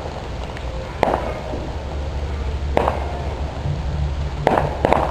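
Fireworks going off: sharp bangs about a second in, near the middle, and three in quick succession near the end, over a steady low rumble.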